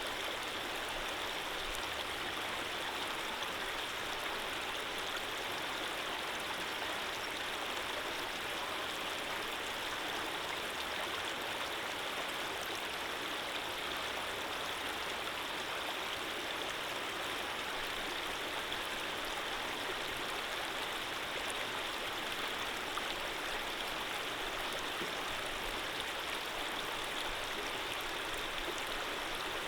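Running water flowing steadily, an even, unbroken rush like a stream.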